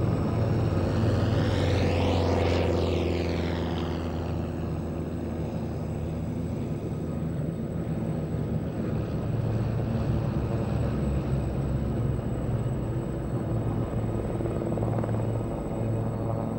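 Many military helicopters flying low in a massed formation approach, their rotors beating steadily. One passes close overhead about two seconds in, swelling and then easing off, and another passes nearer the end.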